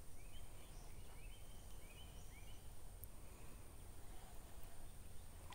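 Faint outdoor ambience with a low rumble, and a bird chirping a quick series of short rising notes in the first half.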